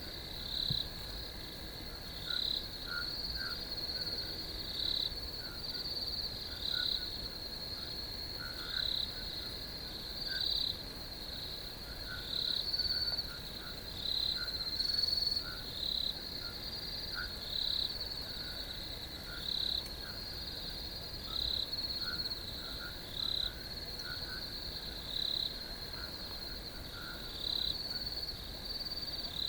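Crickets singing in a chorus: a steady high trill that swells into louder pulses about every one to two seconds, with fainter, lower chirping scattered underneath.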